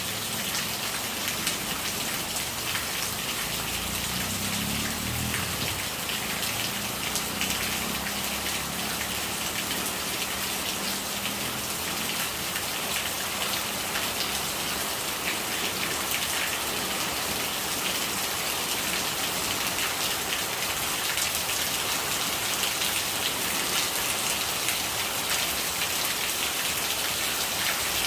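Steady rain falling, with many small drop hits over an even wash of rainwater noise.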